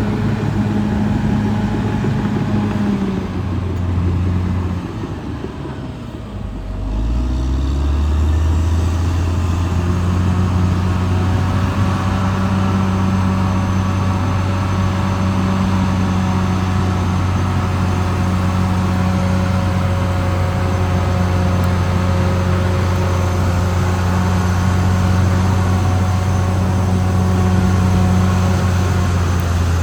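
Caterpillar D6R XL bulldozer's diesel engine running under load. Its speed falls and it quietens between about three and seven seconds in, then it rises again and runs steady.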